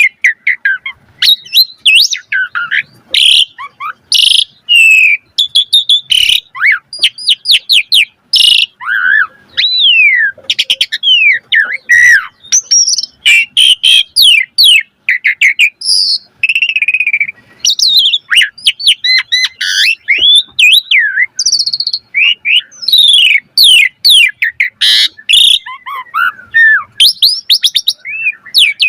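Asian pied starling (jalak suren) singing a long, loud, varied song of rising and falling whistles, chirps and fast rattling trills, full of mimicked phrases (isian).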